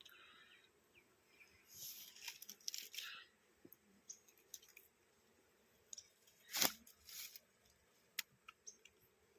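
Faint scratching and crackling handling noises in short clusters, with one sharp click about two-thirds of the way through.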